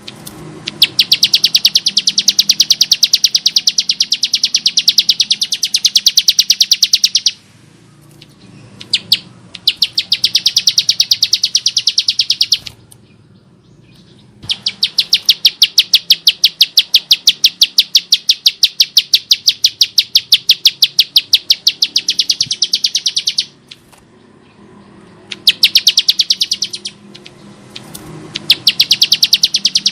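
Bar-winged prinia (Prinia familiaris) calling in long rapid runs of harsh, clicking notes, many a second. The runs break off briefly at about 7, 13 and 24 seconds in, then resume.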